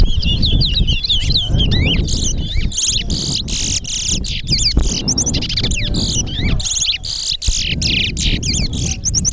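Caged towa-towa songbirds singing in a song race: long runs of rapid, warbling whistled notes that keep overlapping, over a low rumble of background noise.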